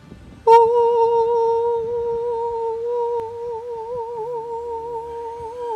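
One long hummed note, starting suddenly about half a second in and held steady, then wavering with vibrato near the end.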